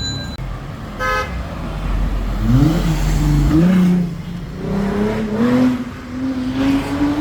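A brief car horn toot about a second in, then a car engine revving and accelerating, its pitch climbing several times.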